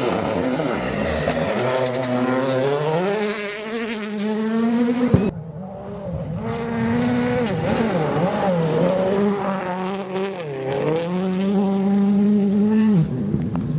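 Rally car engine revving hard and changing gear, its pitch climbing and dropping several times, with a sharp crack about five seconds in.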